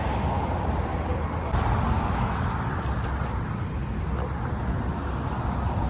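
Steady low rumble of a running vehicle, with no distinct events.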